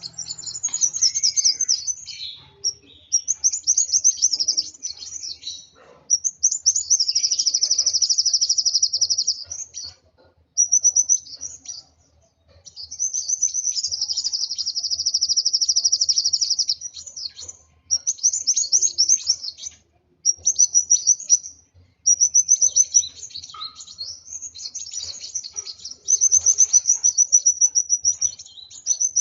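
A kolibri wulung sunbird singing excitedly in high, rapid trills. Its phrases last from about one to four seconds, with short pauses between them, and some are long runs of fast repeated notes.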